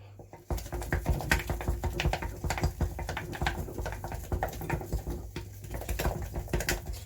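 Mashed potato being stirred in a jug, a utensil working the thick mash with a fast, uneven run of soft wet scrapes and knocks starting about half a second in.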